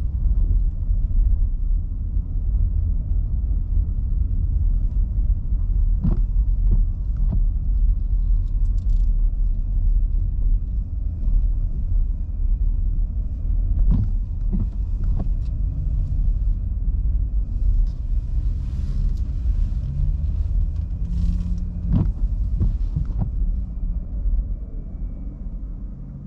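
Low, steady road and tyre rumble of a car driving on rain-soaked roads, with a sharp click about every eight seconds. It fades out near the end.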